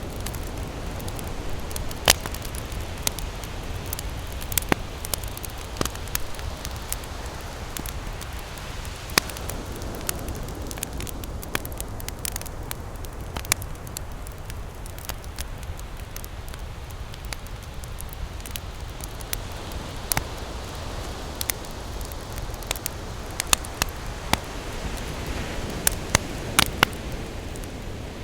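Campfire crackling and popping in irregular sharp snaps, over a steady low rumble of ocean surf.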